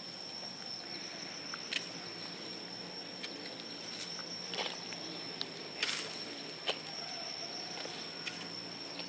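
A steady high-pitched insect trill, like a cricket or cicada, with short knocks and scrapes scattered through it, five or six in all.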